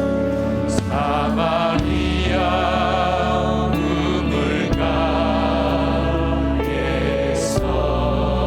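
Church praise band playing a worship song on keyboards, bass guitar, electric guitar and drums, with a wavering sustained melody over a steady bass line and cymbal crashes about a second in and again near the end.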